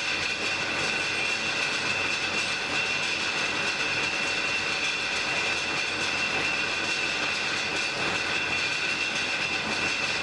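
Blacksmith's forge fire burning, a steady rushing noise with a steady high tone running through it.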